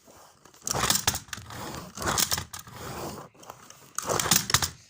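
Close rustling and scraping handling noise in three bursts, about a second apart.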